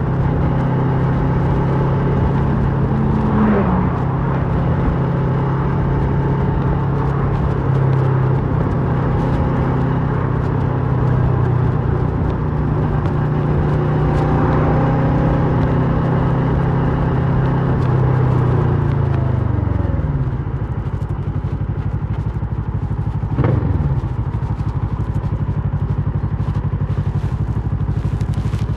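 A 2008 Kawasaki Versys 650's parallel-twin engine running through a MIVV slip-on exhaust under way. The pitch is steady, then drops about twenty seconds in as the bike slows, and settles into a lower, even beat. Two brief falling sweeps are heard, one early and one late.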